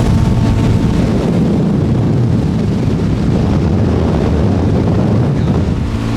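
Wind buffeting the microphone in a steady low rumble while a boat runs under outboard power, with the motor's note mostly buried under the wind.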